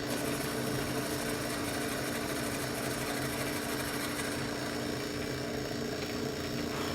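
Workshop power tool's electric motor running steadily with an even hum, and a fine rapid ticking above it that fades about four seconds in.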